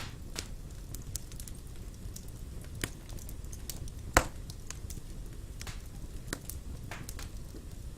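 Wood fire burning in a fireplace: a steady low rumble with scattered crackles and one loud pop about four seconds in.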